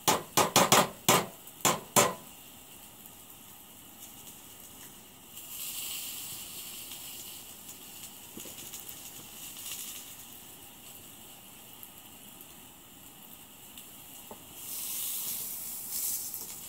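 A quick run of about six sharp metal clinks in the first two seconds, a fork knocking on cookware, then food sizzling on a propane camp stove; the sizzling swells twice, for a few seconds each time.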